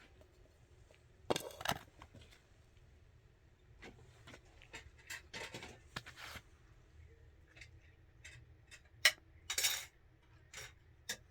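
Scattered clinks and knocks of household items being handled, with a few short scraping sounds; the sharpest knock comes about nine seconds in.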